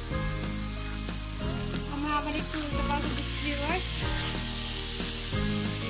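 Sliced bitter gourd and shrimp sizzling as they fry in oil in a metal pan, over background music.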